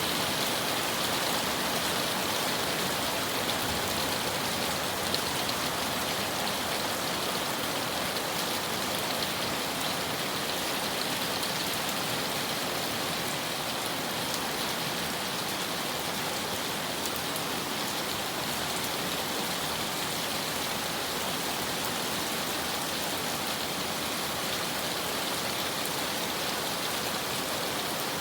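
Heavy rain falling steadily: a dense, even hiss of drops hitting surfaces, with faint scattered ticks of single drops.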